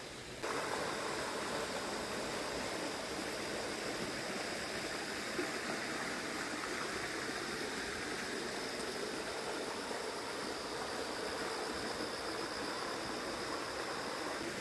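River water rushing steadily, a continuous even wash that gets louder about half a second in.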